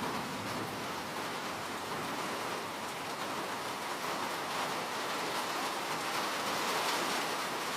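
Steady rain falling, a dense even hiss of drops with fine patter on a surface.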